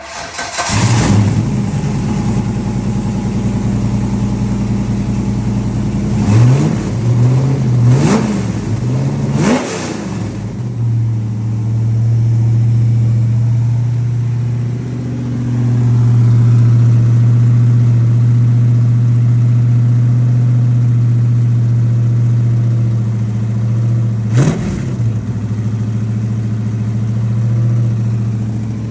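2005 Corvette LS2 6.0-litre pushrod V8 coming to life about a second in and idling. The throttle is blipped three times, the pitch rising and falling each time. It then settles into a steady idle, with one more short blip near the end.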